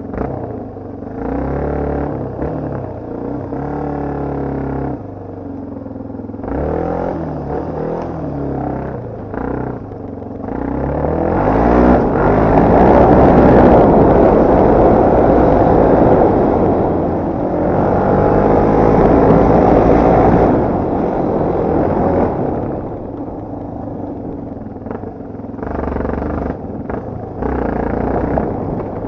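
Off-road motorcycle engine being ridden, its pitch rising and falling as the throttle opens and closes, loudest and roughest for about ten seconds in the middle.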